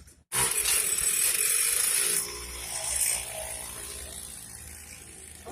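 Small 49cc petrol engine of a children's mini dirt bike, starting abruptly and running at high revs for about two seconds, then easing off and running on more quietly.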